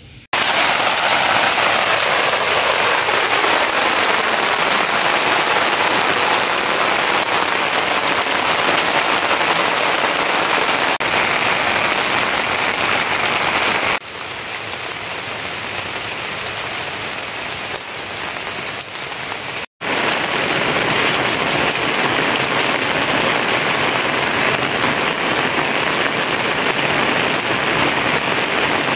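Steady rain falling, a dense even hiss. It drops in level about halfway through and cuts out for an instant a few seconds later before coming back.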